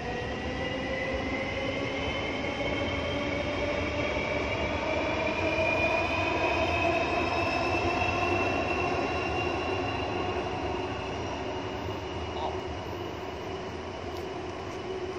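Electric passenger train crossing the elevated viaduct overhead. Its whine rises slowly in pitch over a steady rumble, is loudest around the middle, then fades as the train passes.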